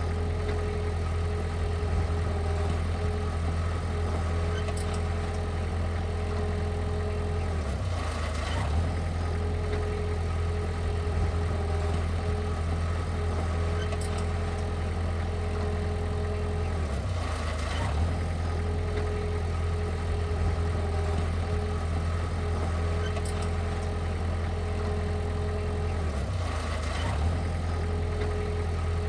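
Diesel engine of heavy earthmoving equipment running steadily at a constant speed, with a brief dip and a faint click about every nine seconds.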